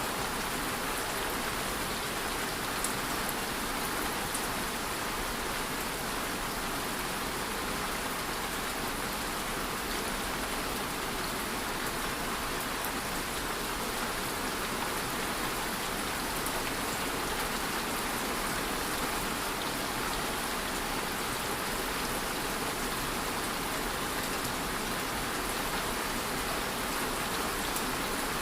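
Steady rain ambience: an even hiss of rainfall with a few faint droplet ticks.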